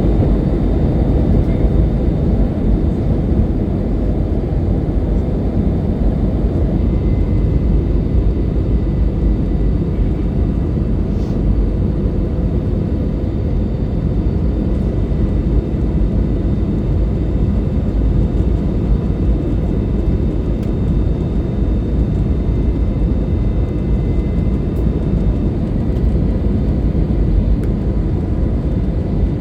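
Cabin noise of an Airbus A320-214 with CFM56 engines in flight: a steady low rumble of engines and airflow with a faint steady hum on top, unchanging throughout.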